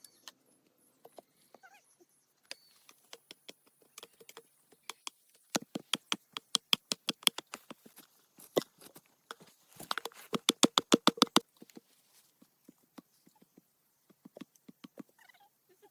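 Sharp knocks or strikes, mostly scattered, with two quick runs of rapid blows at about seven a second.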